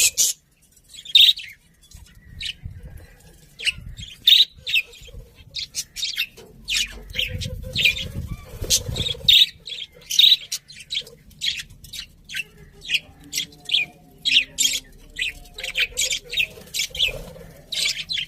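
Budgerigars chirping, a steady run of short, quick, high chirps.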